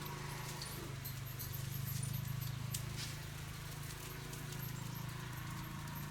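Diesel engine running steadily with a low, even, rhythmic knock.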